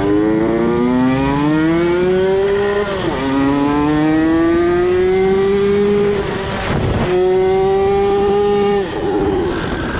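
Small kick-start motorcycle engine with an aftermarket DBS exhaust, revved hard under acceleration: its pitch climbs, falls back twice and climbs again, then holds high. Near the end the engine cuts out suddenly and the rear wheel locks; the rider thinks it hit the rev limiter and died, and the later explanation is fuel not getting through to the carburettor.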